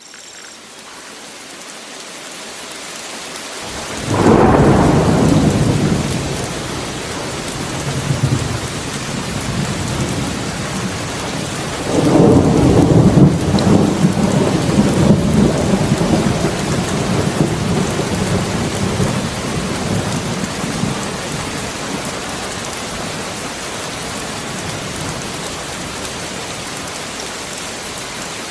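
Rainstorm: steady rain fading in, with a thunder rumble about four seconds in and a second, longer rumble about twelve seconds in, each dying away slowly.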